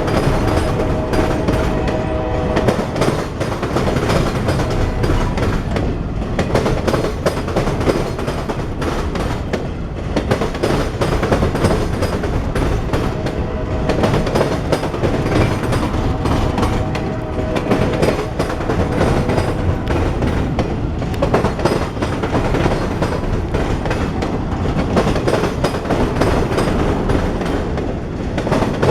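Freight cars of a CSX mixed freight train rolling past, with steady wheel clickety-clack on the rails. Steady tones sound over it near the start and again about halfway through.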